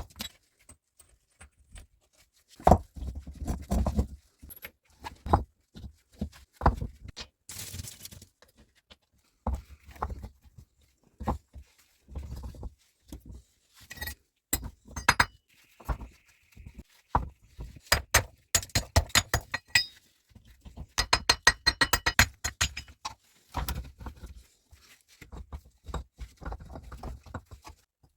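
Irregular clinks, knocks and thuds of hard objects being handled, with a brief hiss about eight seconds in and a fast run of clicks around two-thirds of the way through.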